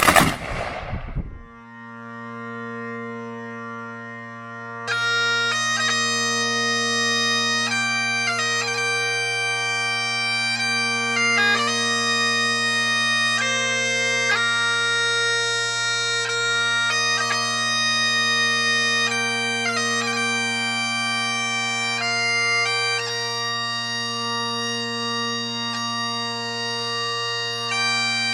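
A sharp bang at the start, then a bagpipe strikes in. The drones sound first as a steady low chord, and about five seconds in the chanter joins with a slow melody over them.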